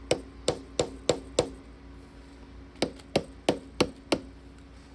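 Two runs of five hammer blows, about three a second with a short pause between, knocking on a stuck part of a two-stroke dirt bike's top end to free it.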